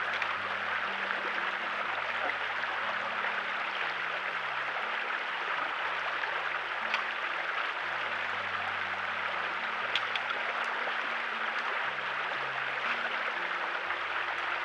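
Steady rush of flowing stream water, with soft background music of held low notes changing every second or two underneath. A couple of faint clicks come in the second half.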